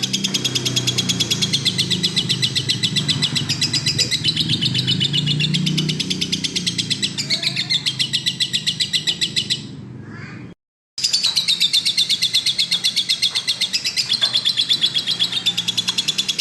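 Lovebird singing in a long, rapid chatter of fast repeated notes, unbroken except for a short cut-out about ten seconds in, after which the chatter resumes.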